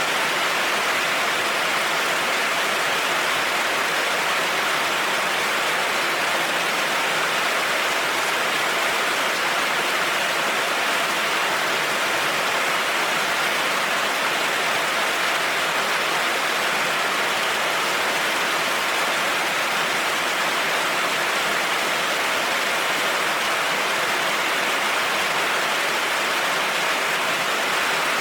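Heavy rain falling on a road: a steady, even hiss with no single drops or thunder claps standing out.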